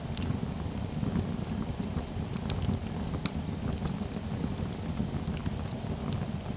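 Dimplex Westbrook Basket Opti-myst water-mist electric fireplace running: a steady low whirr with faint, scattered ticks.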